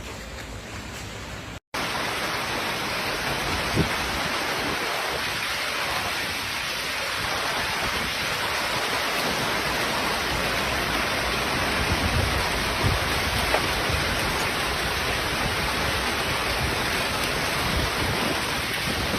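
Hail and heavy rain pelting down in a dense, steady hiss, with a few sharper individual hits standing out. A cut about two seconds in makes it suddenly louder.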